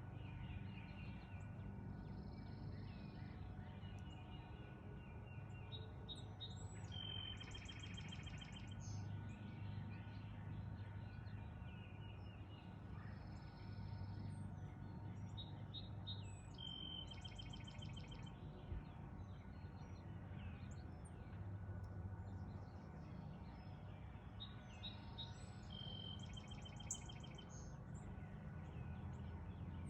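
Songbirds singing and chirping over a steady low background hum. One song with a fast, rattling trill comes back about every nine to ten seconds, three times in all, between shorter whistled phrases.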